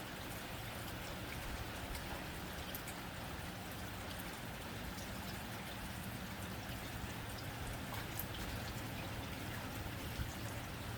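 Steady rain on a tin roof: an even patter with scattered sharp drop ticks.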